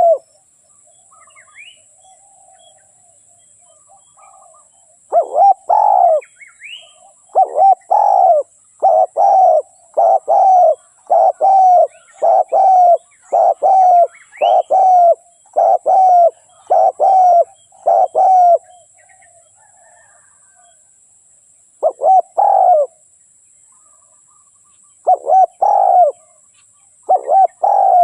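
Spotted dove cooing. A long run of evenly repeated low coos starts about five seconds in and lasts some thirteen seconds, and a few short coo phrases follow near the end. Faint chirps of small birds and a steady faint high hiss lie beneath.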